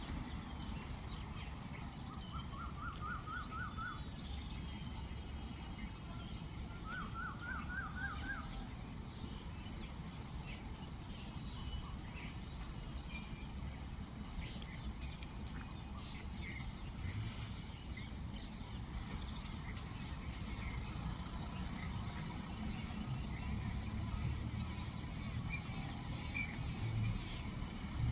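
Outdoor ambience: a steady low rumble with small birds chirping here and there. Twice, a few seconds in and again about seven seconds in, there is a short rapid trill of about six repeated notes.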